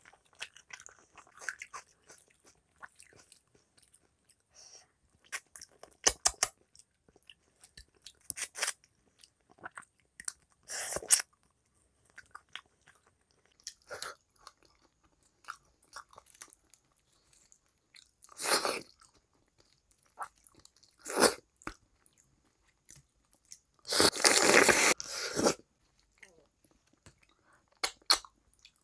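Close-miked mouth sounds of a person eating rice and fish curry with her hand: wet chewing and smacking with many small clicks and crunches. Several louder, longer sounds stand out, the longest about a second and a half, about three-quarters of the way through.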